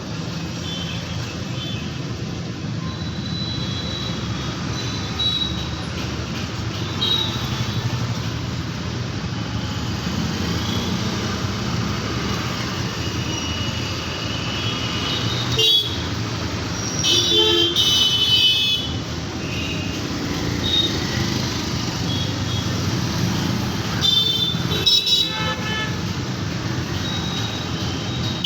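Busy road traffic: a steady rumble of engines with frequent short horn honks, and several louder horn blasts in the second half. A single sharp knock sounds about halfway through.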